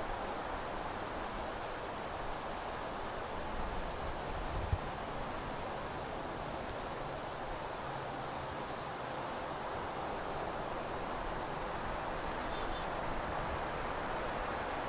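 Steady outdoor rustle of wind through trees, with a faint high ticking about twice a second and a short bird chirp about twelve seconds in.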